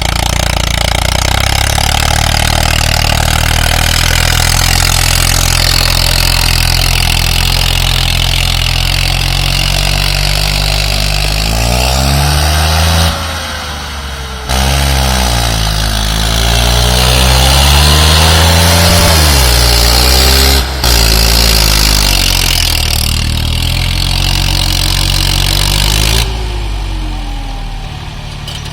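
Swaraj 855 tractor's diesel engine running hard, its pitch rising and falling as it is revved in the middle, with a few sudden breaks in the sound.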